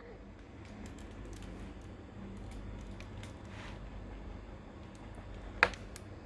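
Faint scattered small clicks and taps of handling, with one sharper click about five and a half seconds in, over a low steady hum.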